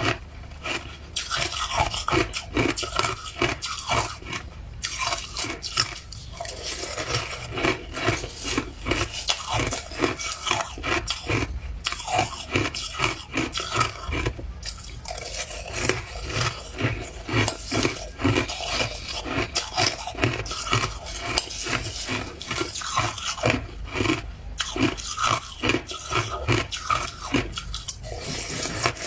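A person biting and chewing ice cubes close to the microphone, with loud crunches in quick succession and brief pauses.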